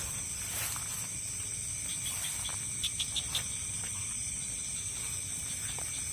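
Night insect chorus of crickets in a rice field, a steady high-pitched chirring, with a few short chirps about three seconds in.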